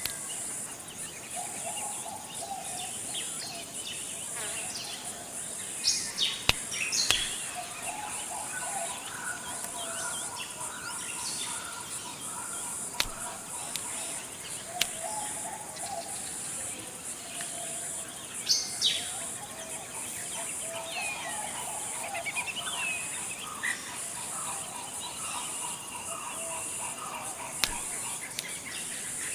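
Forest ambience: a steady high-pitched insect drone under many bird calls, with lower repeated whistles and scattered higher chirps and trills that come louder in short flurries. A few sharp single clicks stand out.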